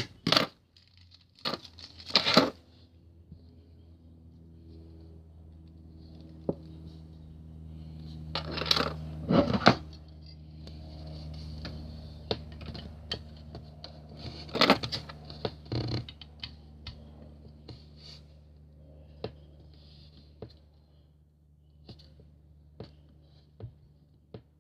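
Packaging of a boxed model airliner being handled and opened by hand: a few loud bursts of rustling and tearing, with many small clicks and taps between them.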